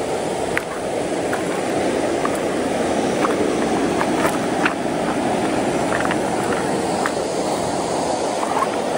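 Steady rush of flowing creek water, with a few faint small clicks over it.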